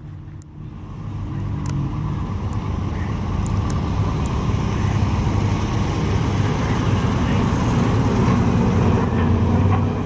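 A car engine running, growing louder over about the first two seconds and then holding steady.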